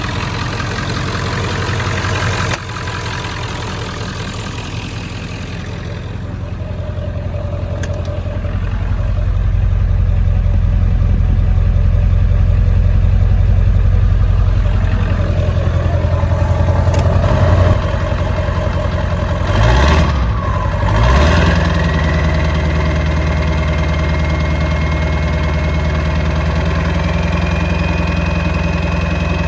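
Ford 7.3 Powerstroke turbo-diesel V8 running through a 5-inch straight pipe just after a cold start, having sat for six to eight months. It idles with a deep drone, is revved briefly twice about twenty seconds in, then settles back to idle with a thin high whine.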